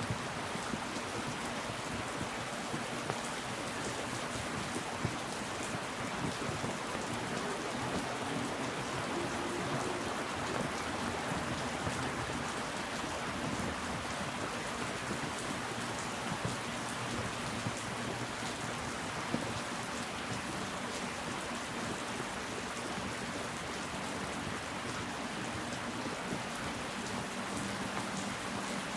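Steady rainfall, with individual drops ticking now and then over the even hiss of the rain.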